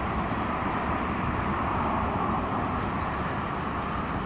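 Distant ChS8 electric locomotive and its service train running away down the line: a steady, even rumble with no distinct wheel clicks.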